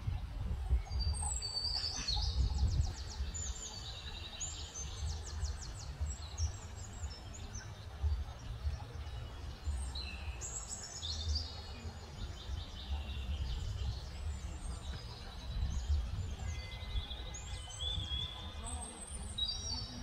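Songbirds singing: a string of high chirps and quick rattling trills, coming and going, over a steady low rumble.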